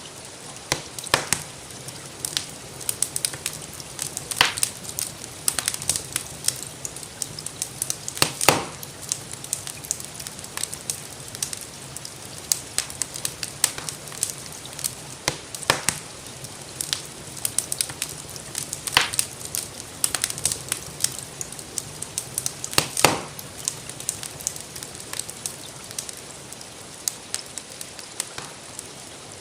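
Wood fire crackling in a fireplace: irregular sharp pops and snaps, a few louder ones, over a steady hiss of gentle rain.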